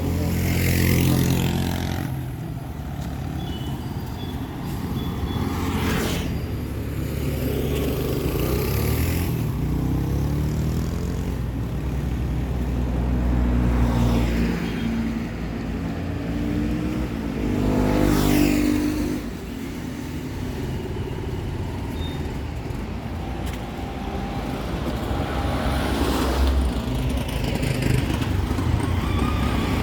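Town street traffic: cars and motorcycles driving past close by one after another, engines rising and falling as each passes, the loudest pass about two-thirds of the way through.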